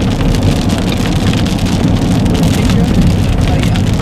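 Rain drumming on a moving vehicle, dense sharp drop strikes over a steady low rumble of engine and road noise.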